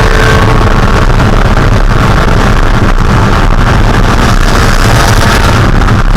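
Loud in-car sound of a Spec Miata race car with a 1.6-litre four-cylinder engine: a steady engine drone with wind noise on the microphone.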